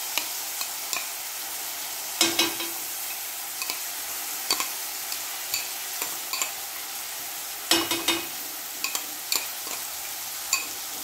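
Garlic and red chilli paste frying in hot ghee in a metal kadhai, sizzling steadily with scattered small pops. A wooden spatula stirs it, knocking and scraping against the pan about two seconds in and again near eight seconds.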